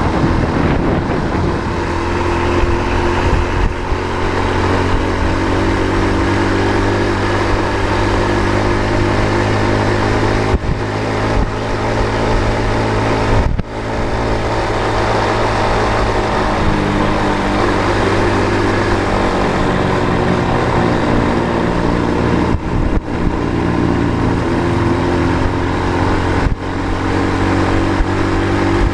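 A road vehicle's engine running steadily under way, with road noise and a few brief dips in level.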